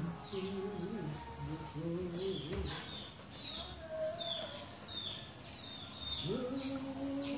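A small bird chirping over and over, short falling chirps about twice a second, with low wavering voice-like sounds underneath and a held low hum near the end.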